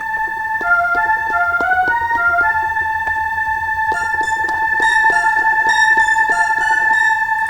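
Roland M-DC1 sound module with a stuck synth tone that keeps holding instead of releasing, a steady organ-like drone under the whole stretch, while short synth notes are triggered over it in two runs of pad hits. The hung note is the module's sound refusing to stop; the player wonders whether his edited envelope is the cause.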